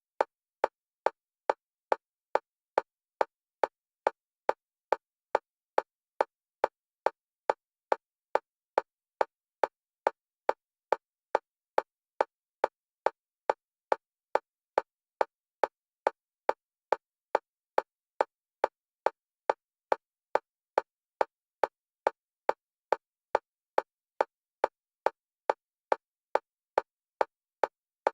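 Electronic metronome click at a single pitch, repeating evenly about two and a half times a second and alternating between the left and right stereo channels: a bilateral stimulation track for EMDR.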